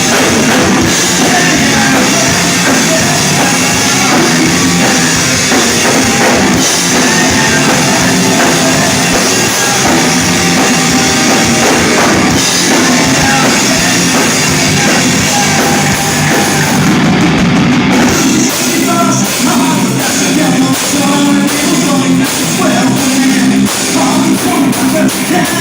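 Live rock band playing loud, driven by a drum kit. The top end thins out briefly about two-thirds of the way through, then the drum hits come in on a steady beat.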